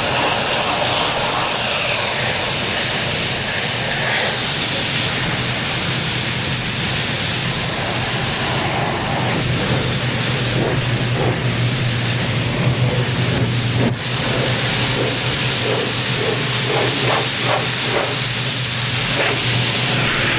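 Pressure washer spraying with a steady loud hiss over the hum of its running motor, blasting grime, algae and mildew off an old truck.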